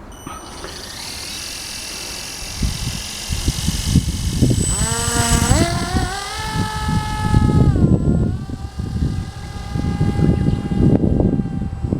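A motor's whine rising in pitch about five seconds in, then holding steady and dipping a little, over an uneven low rumble.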